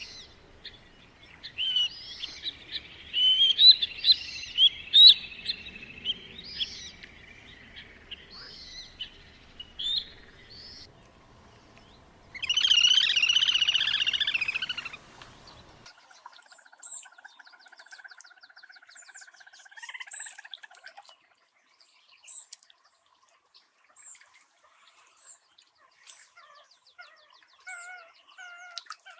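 Birds chirping and singing, with one loud buzzy trill lasting about three seconds near the middle. The background drops out suddenly after that, and sparser calls follow, ending in a series of short repeated notes about twice a second.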